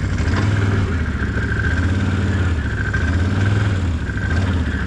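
Can-Am off-road vehicle's engine running at low revs, its pitch rising and easing off a few times with the throttle, with a steady high whine above it.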